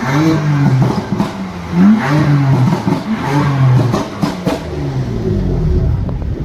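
A supercar's engine revved hard several times, its pitch climbing sharply on each blip and dropping back between them.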